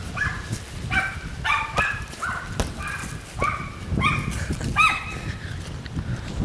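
A dog giving a rapid string of short, high-pitched whining yips, about two a second, with a few thumps among them.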